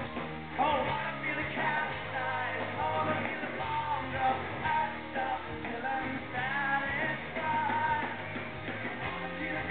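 Live rock band playing, with a sung vocal line over guitar and bass.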